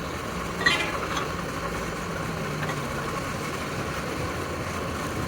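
A machine's motor running steadily with a low hum, and one sharp click a little under a second in.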